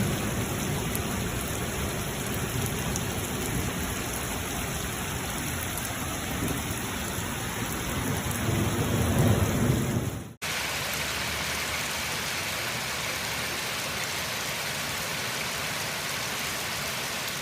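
Heavy rain pouring down, with low rumbles of thunder swelling in the first part. About ten seconds in the sound cuts abruptly to another stretch of steady, hissing rain.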